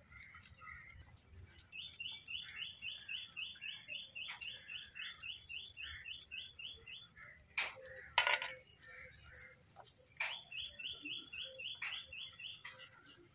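A bird calling in fast runs of short, high chirps, about four a second, one long run through the first half and a shorter run near the end. A couple of sharp knocks a little past the middle are the loudest sounds.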